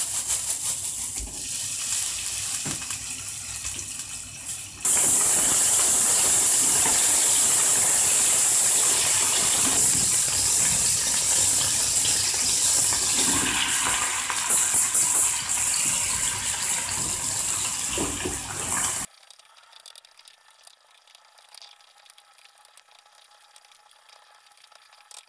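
Thin-sliced pork frying in hot oil in a nonstick frying pan: a light sizzle at first, then suddenly a much louder, steady sizzle from about five seconds in. About nineteen seconds in the sizzle cuts off abruptly, leaving only a faint thin hiss.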